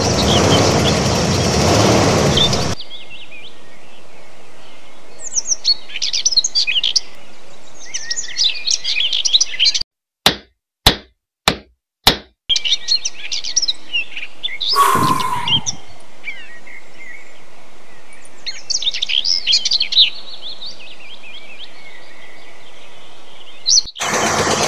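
Birds chirping over a steady outdoor ambience. About ten seconds in the ambience drops to silence for two or three seconds, broken by four sharp clicks, and about fifteen seconds in a whistling sound sweeps down in pitch. A loud rushing noise fills the first three seconds, and another comes in at the very end.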